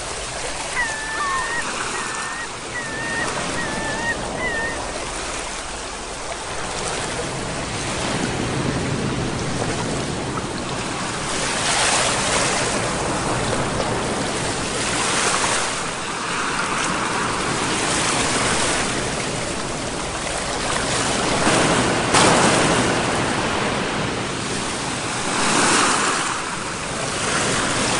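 Sea waves: a steady wash of surf that swells and breaks every few seconds. A few short, wavering high chirps sound in the first few seconds.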